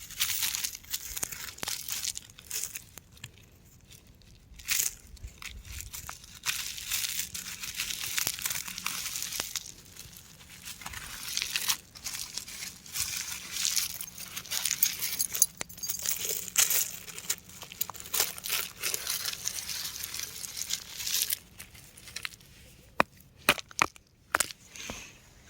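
Rock crumbling and being crushed: dense, gritty crackling and crunching with many sharp clicks, easing off for a few seconds early on and thinning to a few separate clicks near the end.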